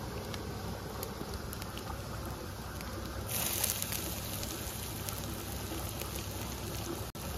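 Chopped ginger frying in hot oil in an iron karahi over a wood fire: the sizzling starts suddenly about three seconds in and goes on steadily. Before that there is only the light crackle of the wood fire.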